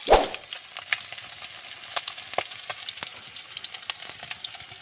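Chicken pieces frying in a wok: a steady sizzle dotted with many short pops and crackles. One loud knock comes just after the start.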